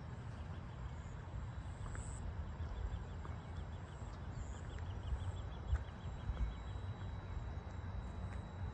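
Outdoor ambience: a steady low rumble, with a faint, rapid series of high chirps in the middle.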